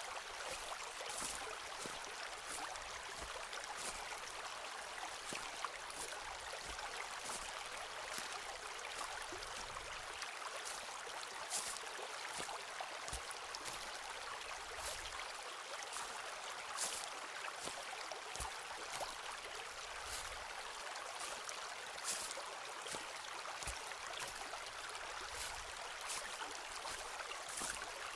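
A forest stream running with a steady rush, and footsteps on the forest floor giving a short crunch every second or two.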